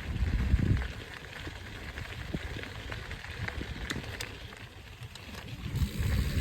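Mountain bike riding over a dirt trail, with scattered small clicks and crackles from the tyres. Low gusts of wind rumble on the microphone in the first second and again near the end.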